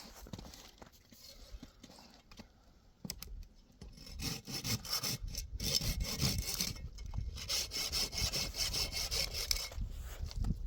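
Rhythmic rasping, scraping strokes that start about four seconds in and run for about six seconds.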